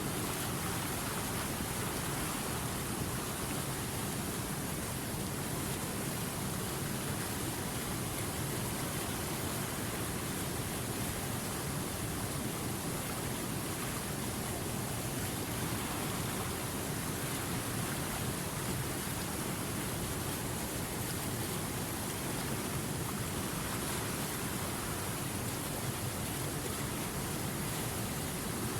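River water flowing over rapids, a steady rushing hiss that does not change.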